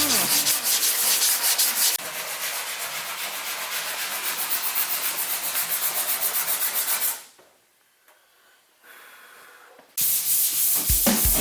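Sanding on a car body panel: rapid, even back-and-forth strokes that stop about two-thirds of the way through, leaving a near-silent gap, then start again near the end. Music comes in at the very end.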